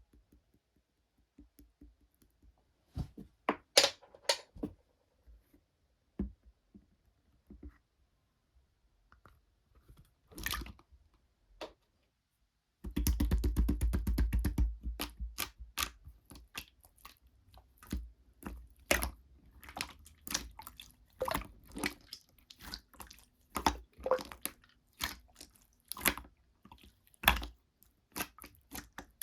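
Slime being squeezed and poked by hand, giving scattered sticky clicks and pops at first, then from about halfway a dense run of rapid crackling clicks and squishes.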